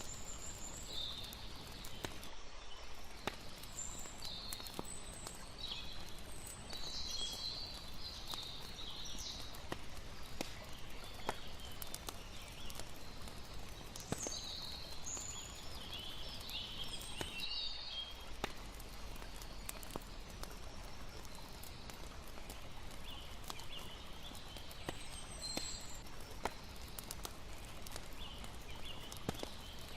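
Layered night ambience: a campfire crackling with sharp pops scattered throughout, over a steady wash of water, with irregular high chirps on top.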